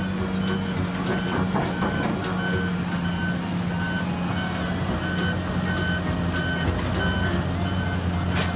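Back-up alarm on heavy construction machinery beeping about twice a second over a steady diesel engine drone, with a single sharp knock near the end.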